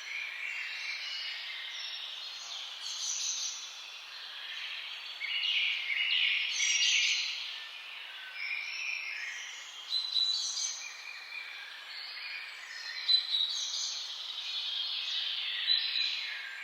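Several birds singing and chirping at once, their songs and calls overlapping, over a steady background hiss.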